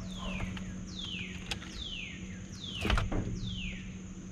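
A bird calling a series of five falling whistled notes, about one a second. A single sharp knock comes a little before the fourth note ends, over a steady low hum.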